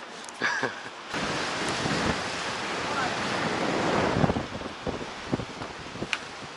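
Wind rushing over the microphone, with the sound of the sea. It starts abruptly about a second in, builds to a peak around four seconds in, then eases off.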